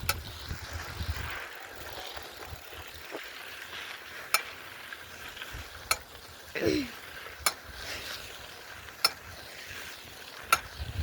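Bicycle ride: a steady hiss with a sharp click about every second and a half. About two-thirds of the way through there is a short, falling vocal sound.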